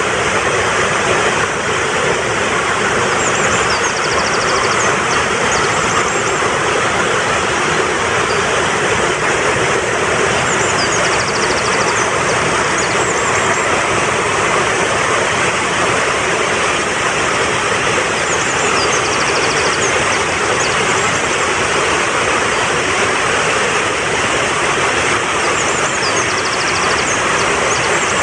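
Fast-flowing mountain stream rushing steadily. A faint, high, quick bird trill comes four times, about every seven or eight seconds.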